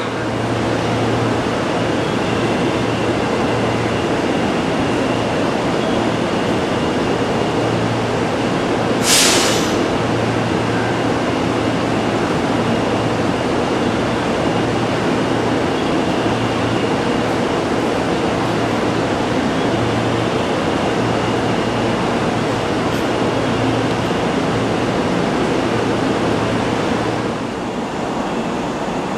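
Shinkansen train standing at a station platform: a steady running hum and noise, with a short hiss about nine seconds in.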